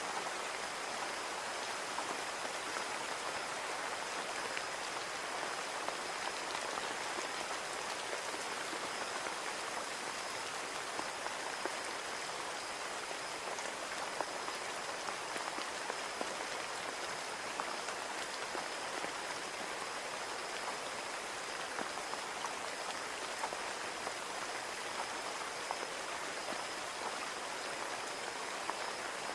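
Steady rain falling on a window pane, an even hiss of rain with individual drops ticking against the glass.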